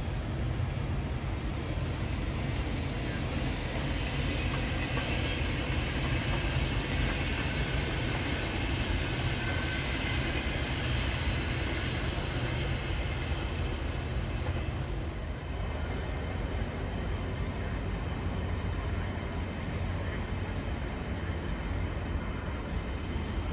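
Passenger train running along a riverside line, its rolling noise swelling through the middle and fading out about fifteen seconds in, over a steady low rumble.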